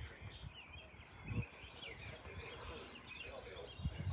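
Birds chirping and singing in many short rising and falling notes. Low thumps come about a second and a half in and again near the end.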